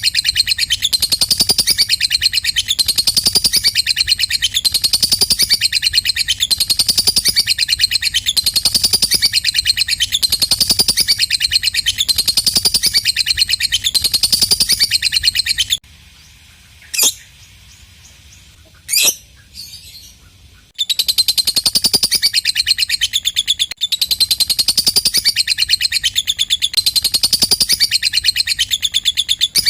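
Lovebird 'ngekek': a long, fast, high-pitched chattering trill. It stops about halfway through for several seconds, broken only by two single sharp chirps, then starts again.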